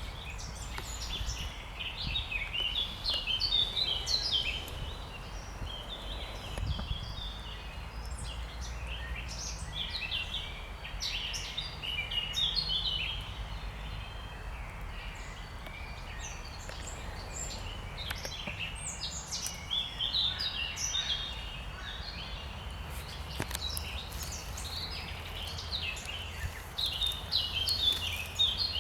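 Songbirds singing: bouts of quick, high chirping phrases come and go every few seconds over a steady low background rumble.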